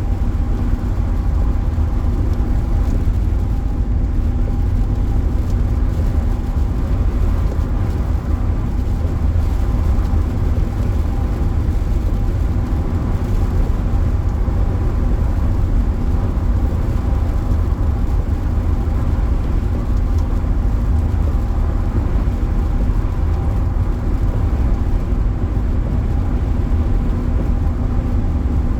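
Steady road and engine noise inside a car's cabin while it drives at highway speed, a deep rumble with a faint steady hum.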